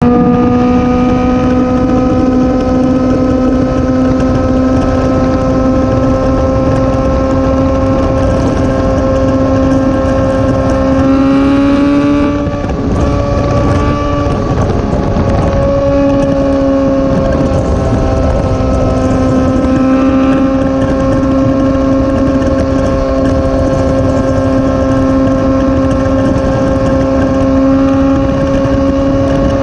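Motorcycle engine running at steady cruising revs with a constant engine note and low wind rush. About twelve seconds in the note climbs slightly, breaks off and dips for a few seconds, then returns steady, like a throttle change or gear shift.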